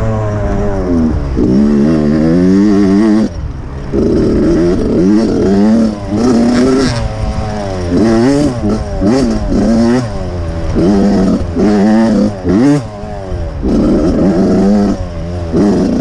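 Dirt bike engine revving hard and easing off again and again while riding, its pitch climbing and falling with each burst of throttle; the throttle is shut briefly twice, about three seconds in and again about thirteen seconds in.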